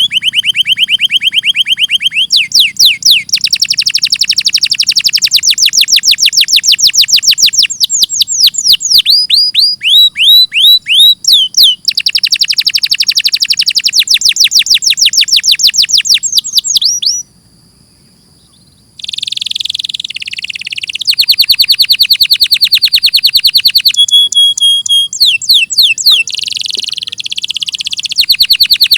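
Domestic canary singing long trilled runs of rapidly repeated, downward-sweeping notes. It switches to a new phrase every few seconds and pauses briefly about two-thirds of the way through.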